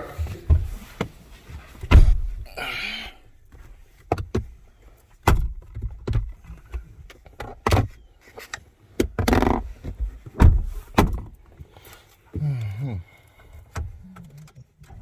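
A string of sharp knocks and thuds at irregular intervals, with stretches of rustling handling noise between them.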